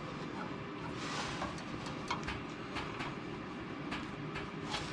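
Scattered light clicks and taps of a caliper being handled and set against a patched exhaust pipe, over a steady low background noise.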